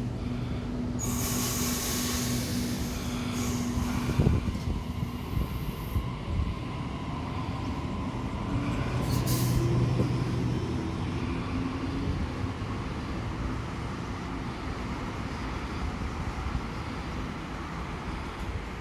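Heavy vehicle running, with a long hiss of compressed air starting about a second in and a shorter, higher hiss about nine seconds in, typical of air brakes.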